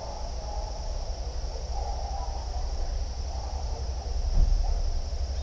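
A steady high-pitched insect chorus, like crickets or cicadas, over a low rumble, with one low thump about four seconds in.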